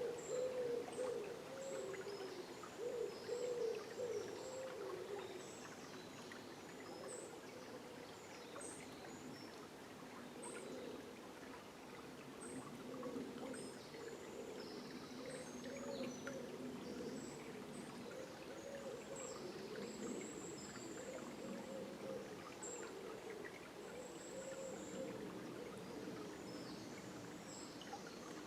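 River water flowing with a steady, burbling gurgle, a little louder in the first few seconds. Small birds chirp high and short over it, roughly once a second in places.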